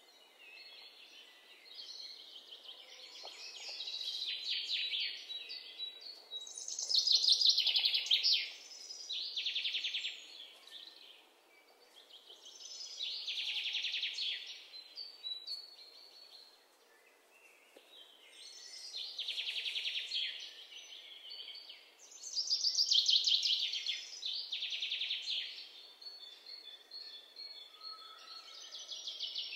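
Birds singing in rapid high trills, phrase after phrase, the chorus swelling and fading every few seconds.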